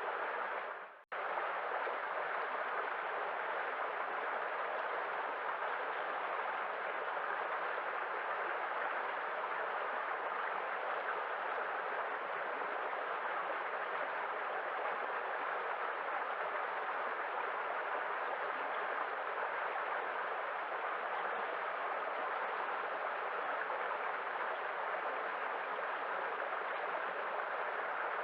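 Steady rushing of sea waves, an even wash of noise without distinct breakers, cut by a brief dropout about a second in.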